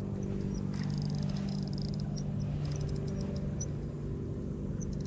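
Steady low mechanical hum, with a few short high chirps scattered through it.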